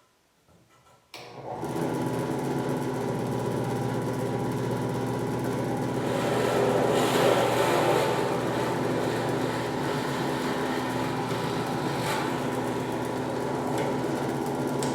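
WEN 8-inch 5-speed benchtop drill press switched on about a second in, its motor and spindle then running with a steady hum at the basic speed setting on a first test run. It grows somewhat louder for a couple of seconds near the middle.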